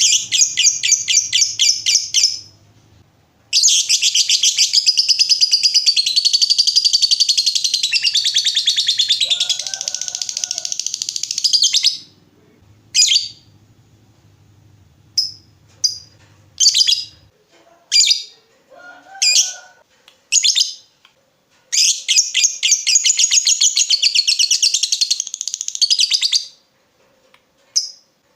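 Lovebird 'ngekek': long runs of rapid, high chattering trills. One run of about eight seconds starts a few seconds in and another comes near the end, with short single chirps in between.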